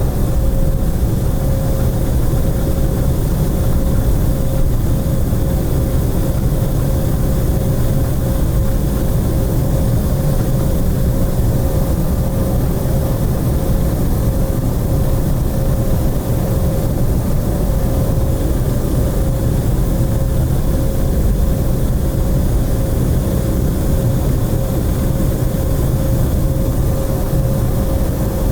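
Airliner engines running at a steady power, a loud low rumble with a steady hum on top that neither rises nor falls.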